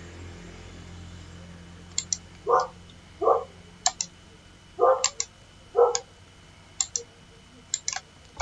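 A dog barks four short times, interleaved with sharp double clicks of a computer mouse about once a second.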